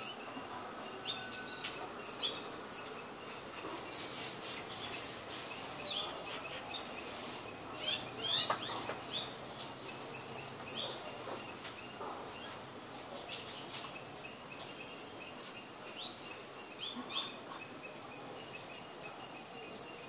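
Small birds chirping: short, high chirps at irregular intervals over a steady background hiss.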